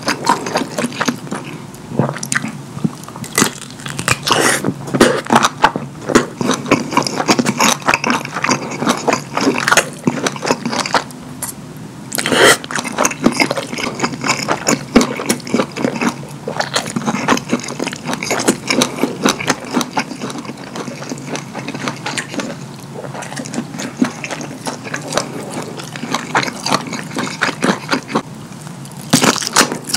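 Close-miked chewing and lip-smacking on kielbasa sausage dripping with cheese sauce: wet, sticky mouth sounds made of many quick clicks and smacks, going on without a break.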